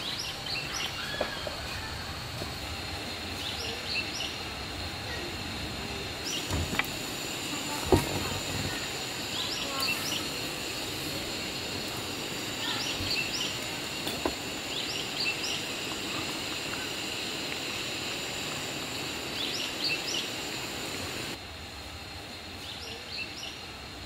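Forest ambience: a bird repeating short rising calls in pairs every few seconds over a steady high insect drone, with a few light knocks, the sharpest about eight seconds in.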